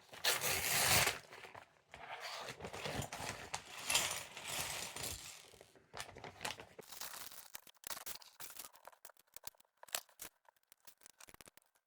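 Plastic Lego parts bag torn open and rustled in the first few seconds, followed by a long run of small sharp clicks and taps of Lego pieces being handled and pressed together.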